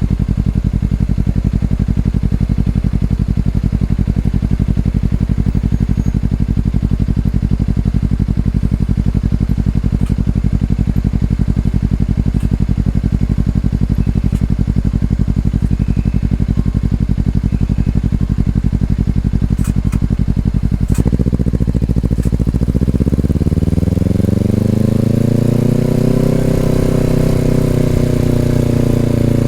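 2020 Honda CBR250RR's parallel-twin engine through an Over Racing aftermarket exhaust, idling steadily. About 21 seconds in, the revs climb smoothly for a few seconds, then level off.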